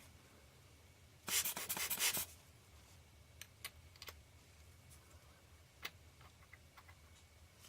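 A scratchy rubbing burst lasting about a second, then a few light, sharp clicks and ticks: small lens parts being handled and fitted back into the lens barrel during reassembly.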